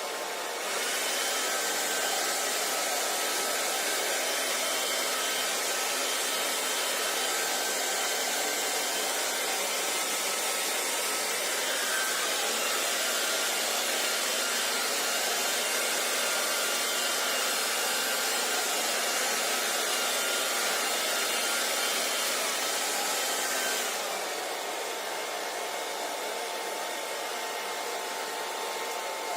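Hair dryer blowing steadily, a rushing airflow with a faint motor whine. It grows louder about a second in and falls back to a quieter level near the end.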